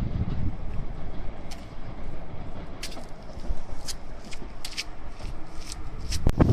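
Passenger train running through the station, its low rumble easing off, with scattered sharp clicks from the wheels on the rails. Near the end a loud gust of wind hits the microphone.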